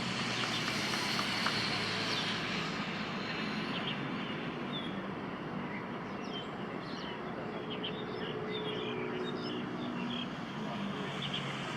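Steady outdoor background noise with scattered short high chirps of birds.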